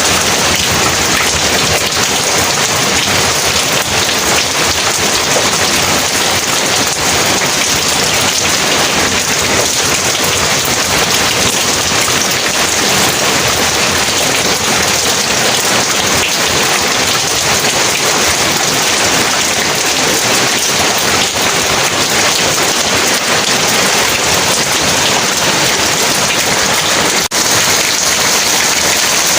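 Heavy rain falling in a steady, dense hiss, with a brief dip in level about two seconds before the end.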